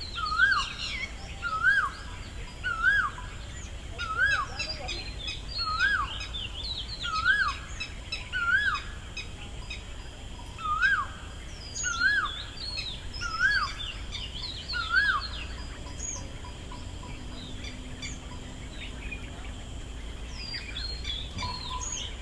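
Birds calling. One bird repeats a single whistled note that rises and then falls, about every second and a half, eleven times, and stops about fifteen seconds in. Under it, other birds chirp at a higher pitch, and a faint steady high tone runs throughout.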